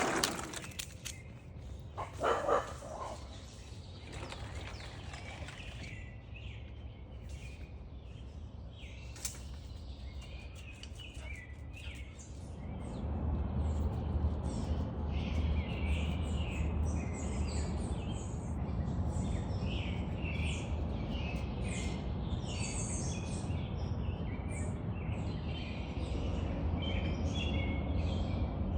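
Birds chirping and calling over a steady low rumble that grows louder about twelve seconds in, with a couple of short, louder sounds near the start.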